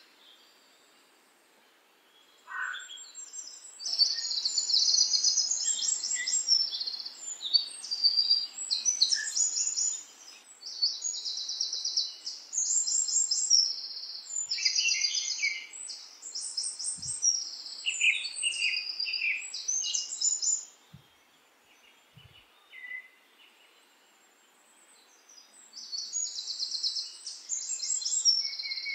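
Songbirds singing: many short, high, rapid trills and chirps that come in close succession, broken by quiet spells at the start and for a few seconds past the middle.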